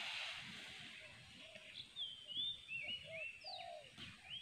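Birds singing faintly: a run of short whistled notes, some sliding in pitch, from about two seconds in, with lower notes beneath them.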